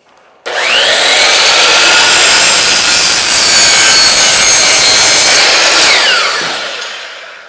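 Miter saw starting with a rising whine, running at full speed while it makes a 45-degree cut in a wooden trim piece, then spinning down with a falling whine once released.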